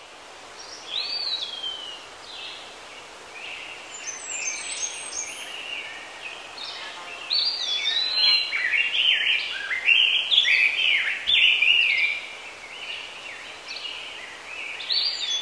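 Several songbirds singing over one another: quick chirps and short whistled phrases that grow busier and louder about halfway through, over a steady background hiss.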